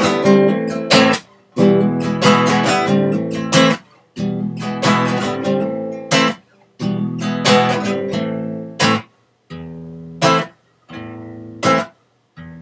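Acoustic guitar strummed in an instrumental break between sung lines, each chord ringing and dying away. The strums become sparser, with short silences between them, in the second half. It is picked up through a computer's built-in microphone.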